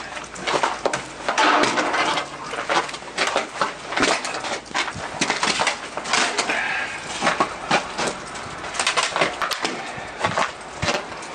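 Ice cracking and breaking in a run of irregular sharp knocks and crunches.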